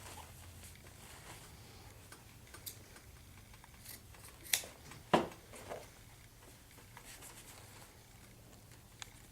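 Scissors cutting nylon webbing: two sharp snips close together around the middle, with a few fainter clicks and handling noises.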